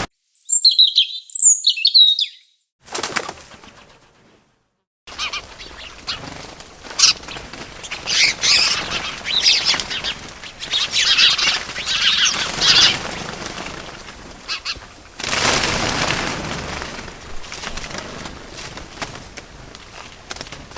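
Small birds chirping and wings flapping: a few quick, falling high chirps in the first two seconds, then after a short gap more chirping over a rustling flutter, with a broader swell of noise about fifteen seconds in.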